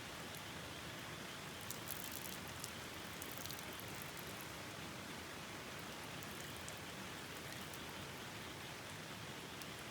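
Steady rushing noise of rain and a river, with a cluster of light, sharp ticks about two to three and a half seconds in.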